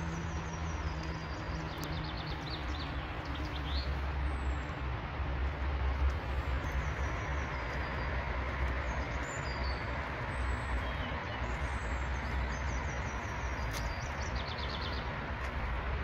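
Songbirds singing, short phrases of quick high notes falling in pitch that come back every three to four seconds, over a steady low rumble and hiss.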